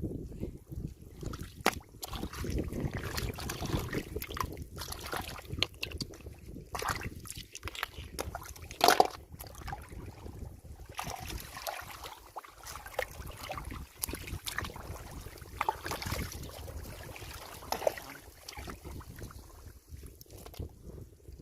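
Shallow water sloshing and splashing as someone wades and rummages by hand in a flooded rice field, with scattered small clicks and one sharp knock about nine seconds in.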